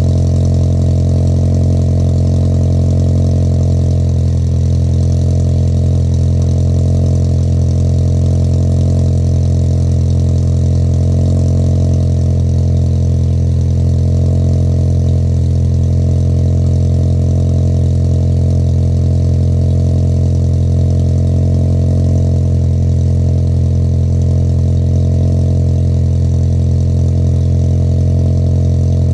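2017 VW Passat R-Line's turbocharged engine, fitted with an APR downpipe and a custom exhaust, idling steadily with a deep, even exhaust drone and no revving.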